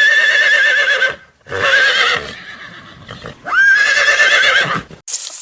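Horse whinnying three times, each call a high, quavering tone; the third rises into it and is the longest.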